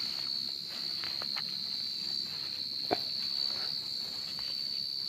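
Cricket singing close by: one continuous, steady, high-pitched trill, with a few soft rustles and one sharper click about three seconds in.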